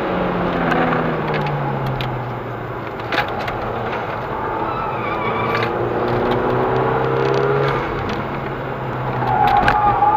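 Inside the cabin of a VW Golf V GTI: its turbocharged 2.0-litre four-cylinder engine falls in pitch as the car slows under braking, with a sharp knock about three seconds in. The engine then rises again as the car accelerates, over steady tyre and road noise.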